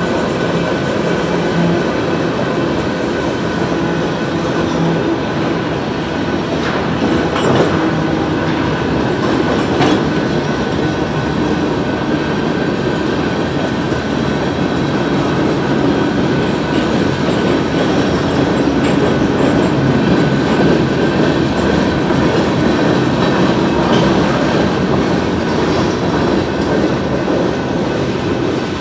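A freight train's cars rolling steadily through a road crossing, their steel wheels clacking over the rail joints. A few sharper clanks come about seven and ten seconds in.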